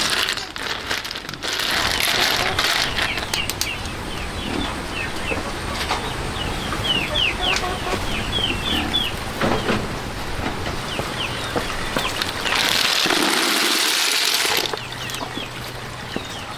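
Birds chirping: many short, high, falling chirps in quick runs. A loud rush of noise lasting about two seconds comes near the end.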